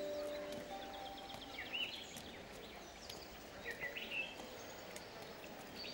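Outdoor ambience with birds chirping: a few short bird calls come in twice, about two seconds in and again about four seconds in, over a faint steady background hiss. The tail of a music cue fades out at the very start.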